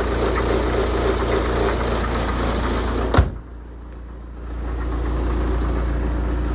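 2008 BMW 118d's four-cylinder diesel engine idling steadily. About three seconds in there is one sharp knock, after which the sound drops for a second or so and then comes back up to the same steady idle.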